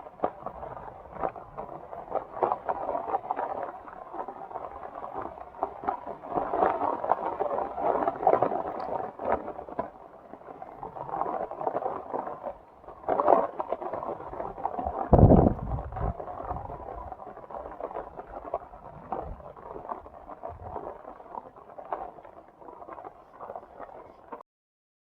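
Heavy rain falling, a dense patter of many separate drop impacts. About fifteen seconds in comes a louder, deep thump or gust on the microphone, and the sound cuts off abruptly shortly before the end.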